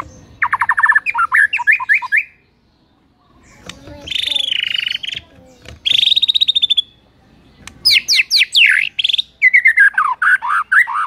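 White-rumped shama singing a string of varied phrases: a rapid stuttering run of notes, then after a short pause a harsh buzzy note and a fast rattle, then quick swooping whistles and a run of repeated falling whistled notes near the end.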